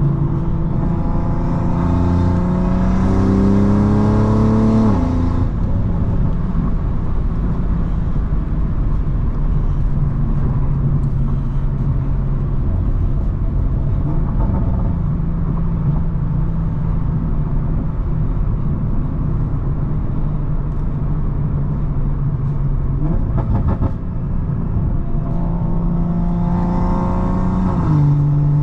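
Tuned, turbocharged 3.0-litre B58 inline-six of a BMW M340i pulling hard, its pitch rising for about five seconds with a high turbo hiss on top, then dropping off suddenly. It runs steadily at cruise, then near the end pulls hard again with the hiss returning, and lets off.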